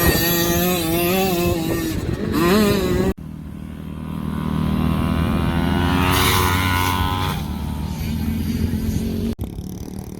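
Youth motocross dirt bikes racing, their engines revving up and down as they ride the track, with one clear rising rev in the middle. The sound breaks off abruptly twice, about three seconds in and near the end.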